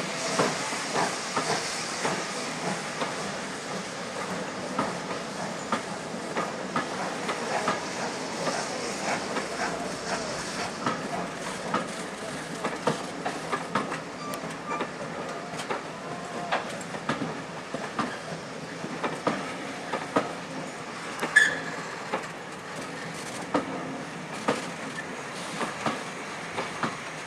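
A steam-hauled train rolling past, its wheels clicking and knocking over the rail joints, with a hiss of steam in the first few seconds. One short, sharper, higher sound stands out about three-quarters of the way through.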